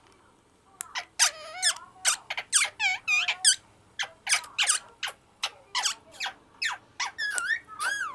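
Pet parrots giving a rapid series of short, high squeaky calls and chirps, about two a second, some sweeping up and down in pitch, starting about a second in.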